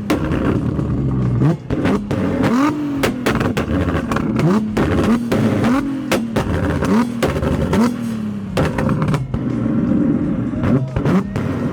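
Car engine revved over and over, its pitch climbing and dropping about once a second, with sharp exhaust pops and crackles between the revs.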